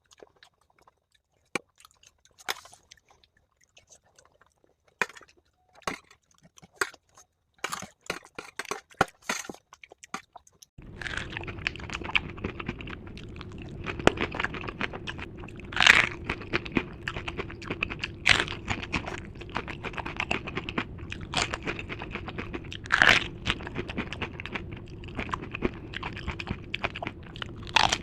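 Close-miked chewing and crunching of dahi puri, the crisp fried puri shells breaking between the teeth with wet, irregular chewing sounds. About eleven seconds in, a steady low background hum comes in under the chewing.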